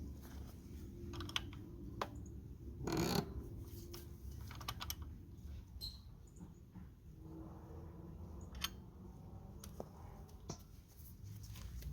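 Scattered light clicks and taps of hand tools, pliers among them, working at the front brake line fitting of a 1970 Yamaha AT1B motorcycle, with one louder, longer noise about three seconds in.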